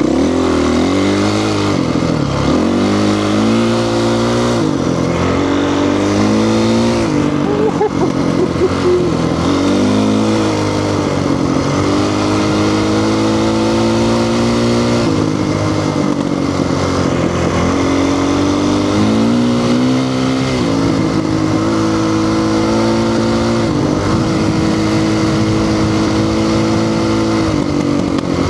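Honda CRF450 dirt bike's single-cylinder four-stroke engine under way, revving up and dropping back again and again, with stretches held at a steady pitch in between.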